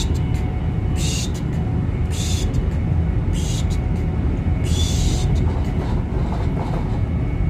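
Inside a moving express train carriage: a steady rumble of the train running at speed. For the first five seconds or so, regular hissing swishes come about once a second.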